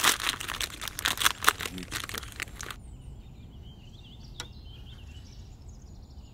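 A plastic packet crinkling and rustling in someone's hands for nearly three seconds. It then cuts to a quiet forest background with faint bird chirps and a single click.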